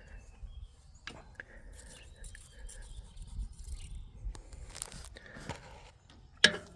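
Hand tools on an engine's valve train: metal scraping and clicking as a feeler gauge and wrench work on a rocker arm to set the valve clearance, with one sharp metallic clank near the end.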